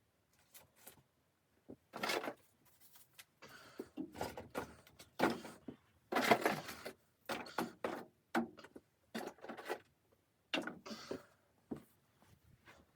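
Handling noise in a small room: irregular scuffs, knocks and rustles, a dozen or so short bursts spread over several seconds.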